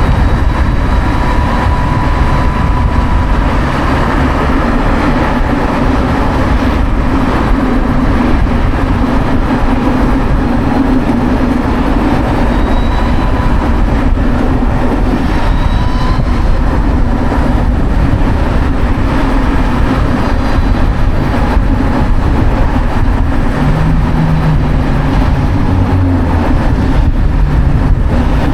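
Steady, loud wind rush and road noise from riding a Savic C3 electric motorcycle.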